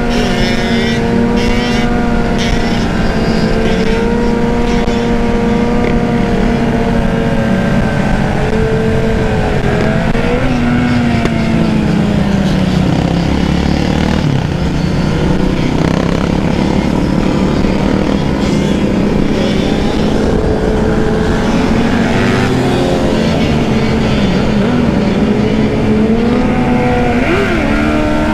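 Dirt bike engine running at fairly steady revs while riding, its pitch sagging and climbing again a few times, over a dense rushing noise.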